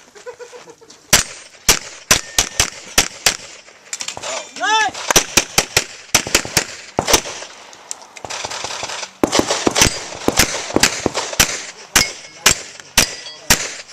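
Pistol shots fired in fast strings and pairs, dozens of them, with brief pauses between strings.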